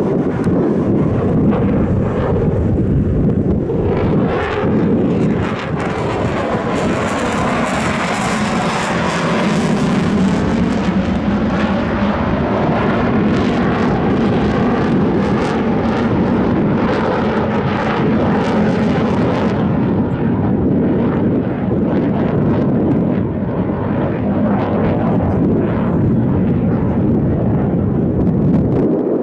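Airplane flying past at an airshow display: a loud, continuous engine sound with a tone that slowly slides in pitch as it passes. The hissing top of the sound dies away about twenty seconds in.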